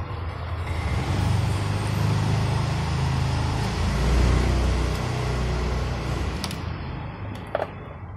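A passing road vehicle: a low engine and tyre rumble that swells to a peak midway and then fades. A few sharp clicks come near the end.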